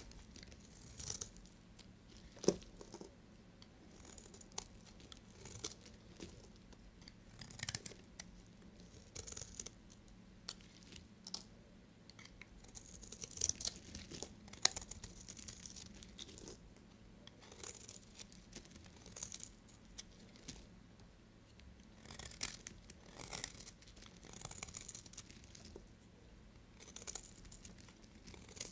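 Knife cutting through soap: a run of irregular, crisp scraping and crunching strokes with the odd sharp click.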